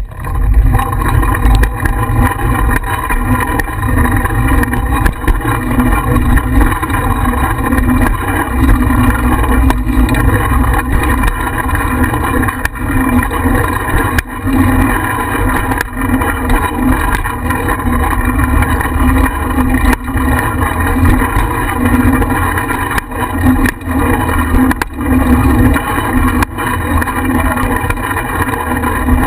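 Wind buffeting the microphone of an action camera mounted on a moving bicycle, a steady loud rumble with many small knocks and rattles from bumps in the path.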